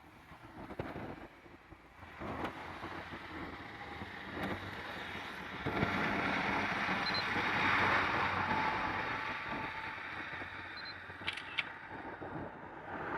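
A train passing, a rushing noise that swells to a peak about halfway through and then eases off. A camera beeps and its shutter clicks a couple of times near the end.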